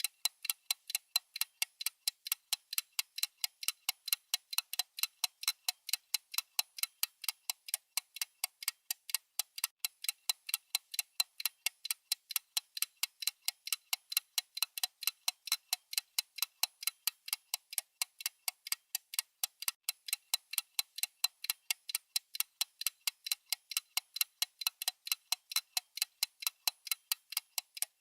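Clock-style ticking sound effect of a countdown timer: quick, evenly spaced, thin, sharp ticks with no low end, going on steadily.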